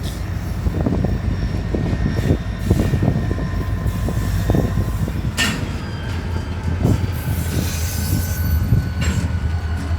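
Freight train moving slowly, with a steady diesel locomotive rumble under irregular clanks and knocks from wheels on the rails. A faint high wheel squeal comes in around eight seconds in.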